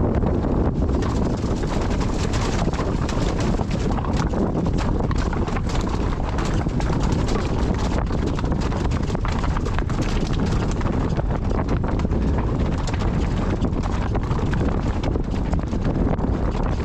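Wind buffeting the microphone in a steady low rumble, with rapid irregular clattering knocks throughout.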